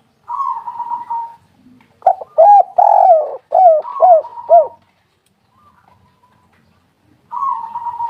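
Spotted dove (tekukur) cooing. A hoarse opening coo is followed by a loud run of about six short, falling coos, and another phrase begins near the end.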